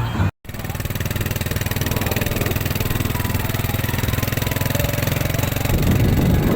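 Motorcycle engine idling steadily with an even, rapid pulse, after a brief break in the audio about a third of a second in.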